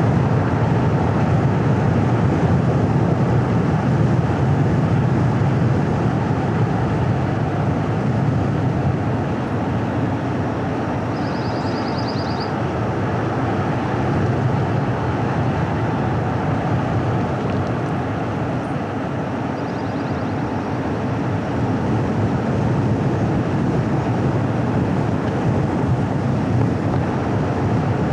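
Car driving along a winding hill road: a steady rumble of tyre, road and engine noise that eases slightly midway and builds again.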